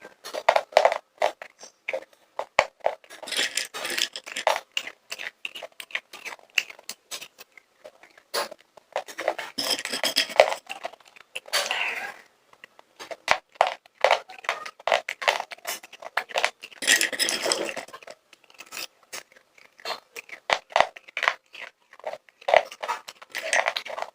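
Popcorn being crunched and chewed close to the microphone: dense runs of crisp crackles and clicks, with scraping and rustling in three heavier bursts.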